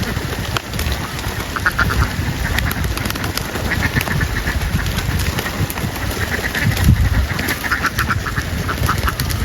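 Many domestic ducks quacking in quick repeated runs of calls, over a low rumble.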